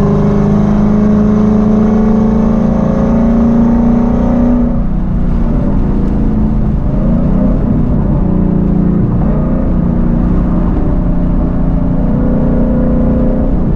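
V8 car engine pulling hard at full throttle in a street roll race, its pitch climbing for about four and a half seconds, then breaking off at a gear change and running on at a lower, wavering pitch.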